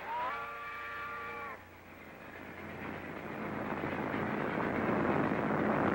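A train whistle sounds for about a second and a half, its pitch sliding up at the start and then holding steady. A rushing roar follows and grows steadily louder.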